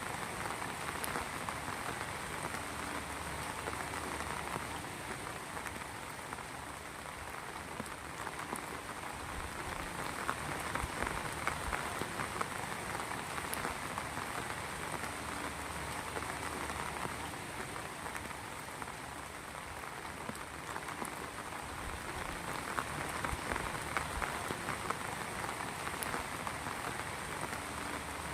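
Rain falling steadily, a dense patter of drops hitting a surface, swelling and easing slightly in loudness.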